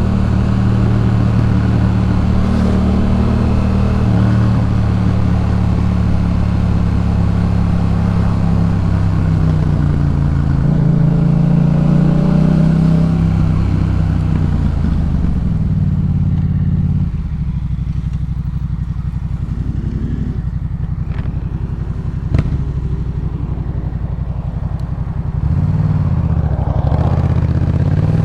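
Yamaha MT-07's 689 cc parallel-twin engine through a Jeskap K4 full aftermarket exhaust while riding, its pitch rising and falling with the throttle and gear changes. About two-thirds of the way in it drops to a quieter, steady low note for several seconds, with one sharp click. Near the end it picks up again with the throttle.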